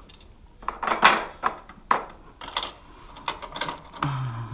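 Metal parts and hand tools clinking and knocking: a string of sharp irregular clicks as parts of a small motorbike are worked apart.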